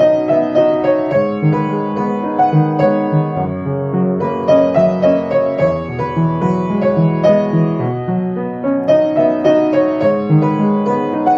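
Background piano music: a gentle melody of quick, evenly struck notes over low chords.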